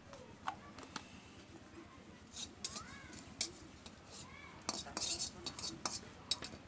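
Metal kitchen utensils clinking and scraping against cookware, in irregular clusters of sharp clicks.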